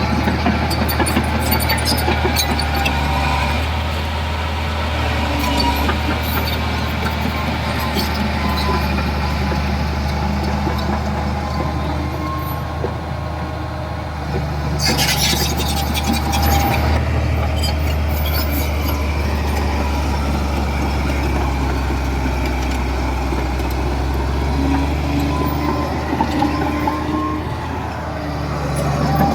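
Heavy diesel earthmoving machinery running steadily with a deep low drone, mixed with scattered short metallic clicks and clatter.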